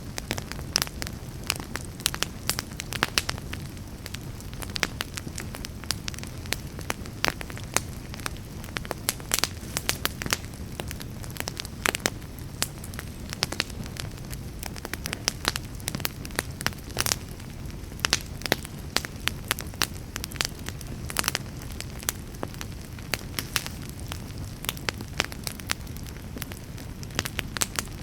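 Wood fire burning in a fireplace, crackling and popping irregularly over a low steady rumble of the flames.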